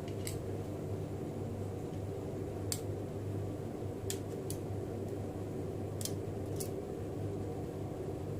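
Light, sharp clicks of small hand tools on a Xiaomi Mi 11 Ultra smartphone being taken apart, about six scattered over several seconds, over a steady low hum of bench equipment.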